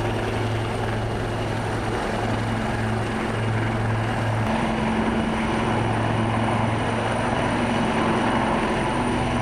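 Aircraft engines droning steadily: a deep hum over a wide rush of noise, shifting slightly in pitch about halfway through.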